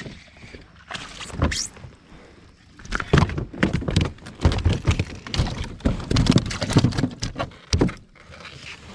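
Irregular rapid thumps and knocks on a kayak, loudest and densest between about three and eight seconds in, as a freshly caught largemouth bass is landed and handled aboard.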